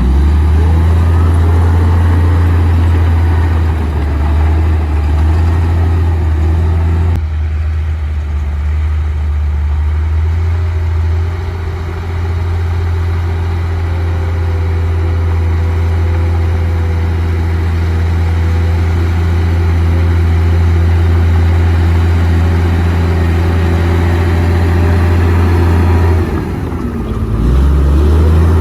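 Komatsu D58P bulldozer's diesel engine running with a deep, steady hum. Its pitch dips and climbs back briefly at the start and again near the end.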